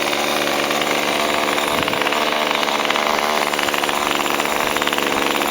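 Small cheap pull-start petrol chainsaw running steadily at speed.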